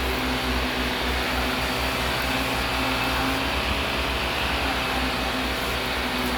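Vacuum cleaner running steadily: a constant rush of air with a low, even motor hum.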